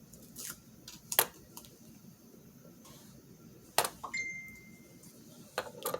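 Paper and craft materials handled on a tabletop: a few sharp taps and clicks, the loudest about a second in and again near four seconds, with a faint thin tone for about a second just after.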